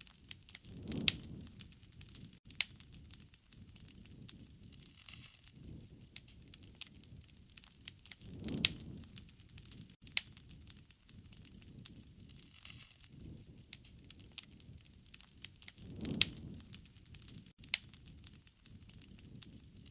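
Wood fire crackling, with many sharp pops and snaps. A soft low swell rises and fades about every seven and a half seconds, three times.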